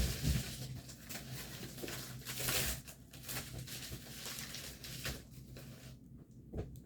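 Packaging being handled and opened: plastic and paper crinkling and rustling, with a knock at the start and a longer tearing crinkle about two and a half seconds in.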